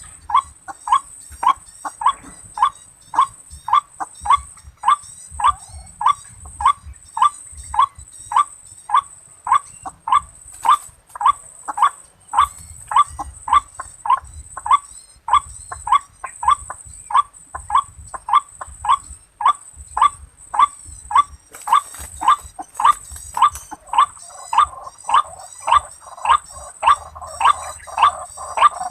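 White-breasted waterhen (ruak-ruak) calls repeated monotonously, a short call roughly every half second, with a steady high whine behind them.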